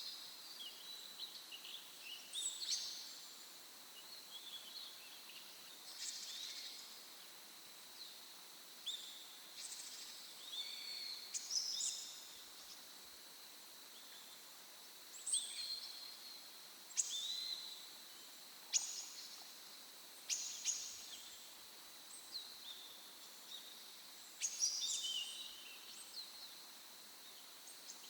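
Wild songbirds calling: short, high chirping phrases every second or two, some with quick falling notes, over a faint steady background hiss.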